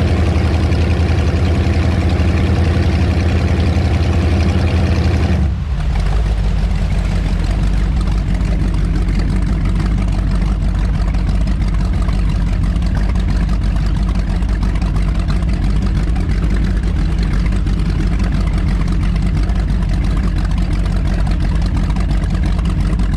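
Avanti 33 powerboat's twin V8 engines running steadily under way. About five and a half seconds in, the sound changes suddenly to a deeper, duller drone that holds steady.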